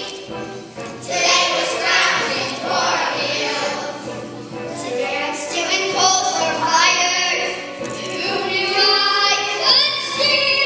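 A group of children singing a show tune together in chorus, with music under the voices.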